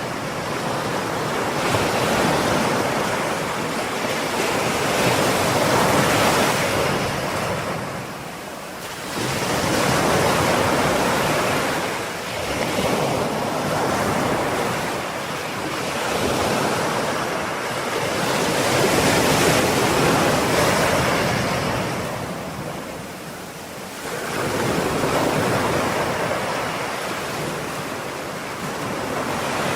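Ocean waves breaking and washing on a shore, a continuous surf hiss that swells and ebbs every several seconds, with wind noise mixed in.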